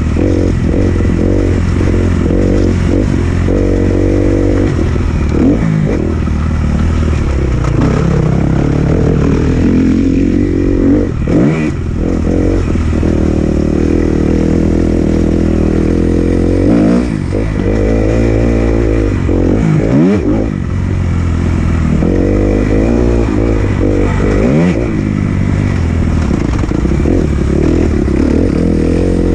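2018 Kawasaki KX250F four-stroke single-cylinder motocross engine under hard riding, revving up through the gears and backing off repeatedly, with several brief throttle-offs before it pulls again. Heard close up from a camera on the moving bike or rider.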